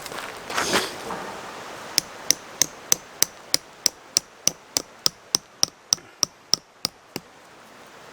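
A hammer driving a tent peg into the ground: about eighteen quick, evenly spaced strikes, roughly three a second, each with a short bright ring. A brief scuffing noise comes just before the strikes.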